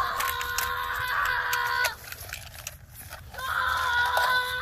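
A child's voice giving two long, steady-pitched yells, each about two seconds, with a short pause between them.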